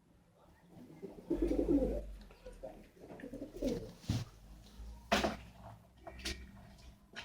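Pigeons cooing in low, rolling phrases, with several sharp clicks or knocks in between. The loudest knock comes about five seconds in.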